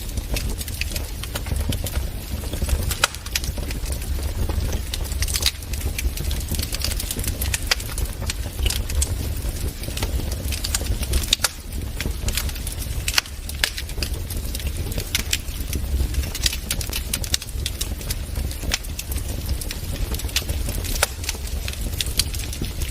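Wood fire in a fireplace crackling and popping, with irregular sharp snaps over a steady low rumble of the flames.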